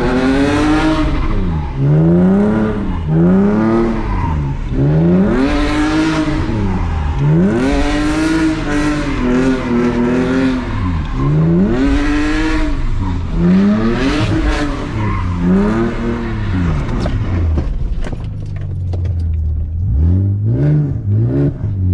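BMW E46's engine revving up and falling back again and again, about a dozen rises and falls in a row, as the car is thrown into slides on a wet road. The revving eases to a steadier note for a couple of seconds near the end, then rises and falls a few more times.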